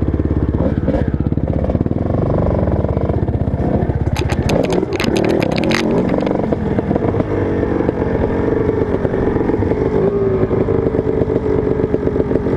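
Motocross bike engine running hard, with a burst of rapid clattering clicks about four to six seconds in.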